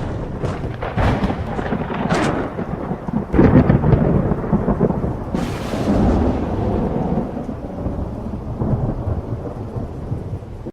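Thunderstorm: thunder cracking and rumbling over rain. Several sharp cracks come in the first few seconds, a hissing crash about five seconds in, then a low rolling rumble that slowly fades.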